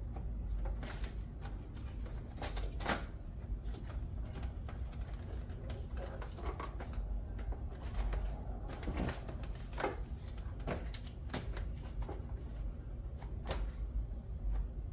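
Irregular light clicks and knocks, like objects being handled, over a steady low rumble.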